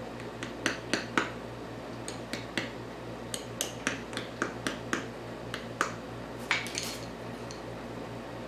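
A series of light, sharp taps and clicks, irregular and sometimes in quick pairs, from hand work on a sand-casting mold and its pattern, over a steady low hum.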